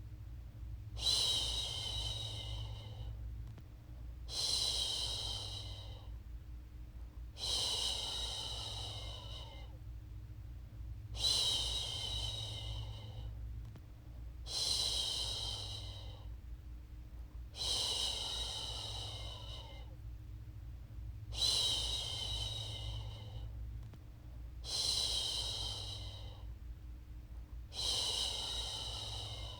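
A woman's voice making long "shhh" shushing sounds to settle a baby, nine of them about every three and a half seconds, each starting sharply and tailing off, over a steady low hum.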